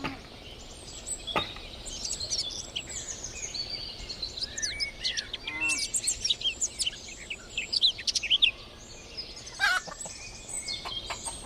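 Many small birds chirping and twittering in short high calls throughout, with a short lower call from poultry about halfway through.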